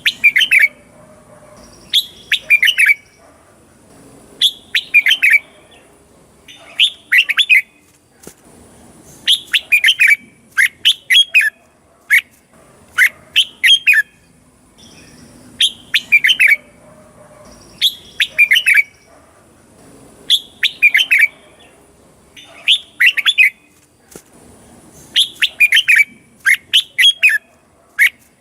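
Red-whiskered bulbul singing: short, loud phrases of a few quick, clear whistled notes, repeated about every one to two seconds. This is the typical chao mao song that keepers play to stir up or teach caged bulbuls.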